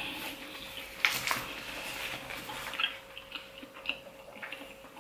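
Close, wet chewing and mouth sounds of a person eating: scattered short smacks and clicks, the loudest about a second in, over a faint steady hum.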